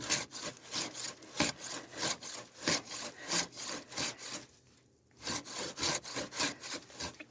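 Hand saw cutting through firewood in steady back-and-forth strokes, about three a second, with a short break a little past halfway before the sawing resumes.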